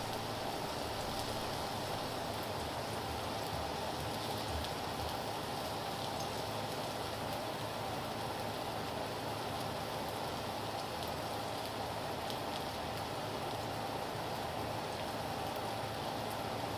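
Chicken pieces frying in hot oil in a wok, a steady sizzle with faint crackles.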